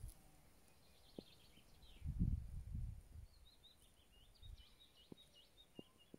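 A small bird singing a quick run of high notes, mostly in the second half, over quiet outdoor background noise. A brief low rumble about two seconds in.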